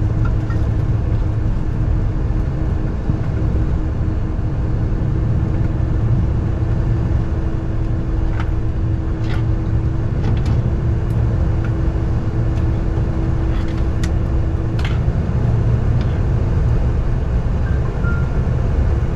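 Cabin noise inside a Boeing 747-400 on the ground after landing: a steady low rumble from the engines and the airframe, with a steady hum that stops about fifteen seconds in and a few light clicks.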